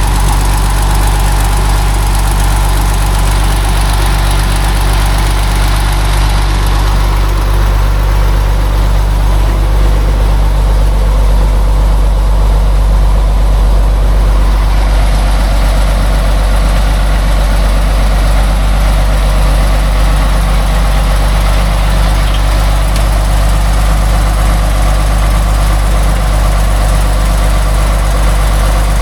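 Log truck's diesel engine idling steadily, a deep even hum with no revving.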